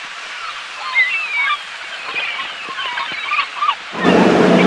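Gulls calling, many short squealing calls over a steady background hiss. About four seconds in, a loud rushing noise with a low hum starts suddenly.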